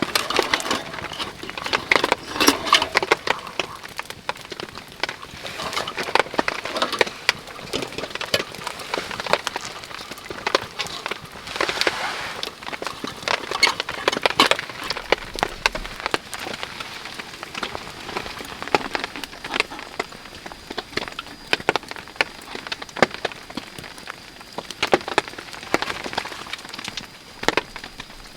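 Wood cracking and splintering in irregular bursts of sharp snaps, over steady rain.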